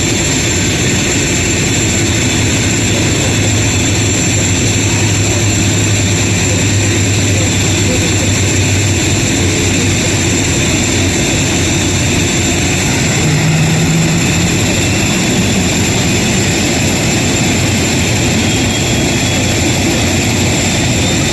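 Airbus A350-900 airliner's Rolls-Royce Trent XWB turbofan engines running, a loud steady rumble and hiss with a low hum, and a faint rising whine near the end.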